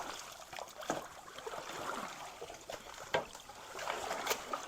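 Creek water sloshing and splashing around people wading and pushing debris through, with a few sharp knocks scattered through it.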